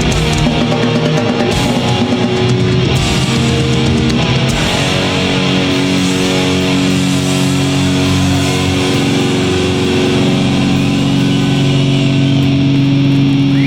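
Live heavy metal band playing loud distorted electric guitars over drums; about four seconds in the drum hits stop and held guitar chords ring on.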